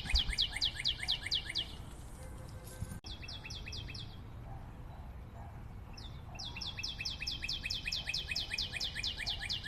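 A fast trill of bird-like chirps, about eight a second, each a quick downward sweep. It comes in three runs: one that stops about two seconds in, a short one around three to four seconds in, and a longer one from about six seconds on.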